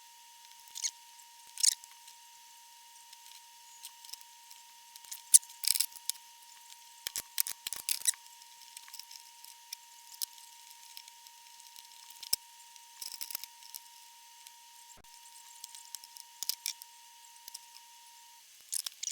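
Scattered light clicks and taps from small tools and components being handled at a workbench while an old valve amplifier is recapped, with the loudest click about five seconds in. A faint steady high tone runs underneath and stops shortly before the end.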